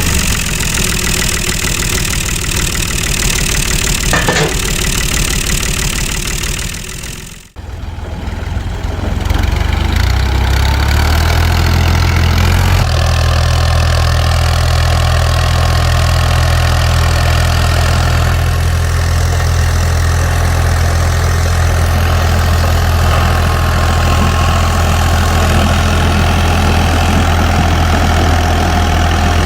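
Mini tractor's engine running steadily with a low hum. It drops out almost to nothing for a moment about seven seconds in, then runs on evenly.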